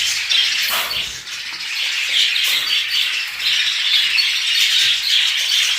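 A flock of caged budgerigars chattering and chirping continuously, many small calls overlapping.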